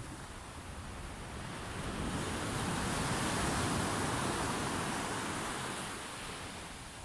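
Sea waves washing onto the shore: a surge of surf that swells about two seconds in, peaks near the middle and fades away.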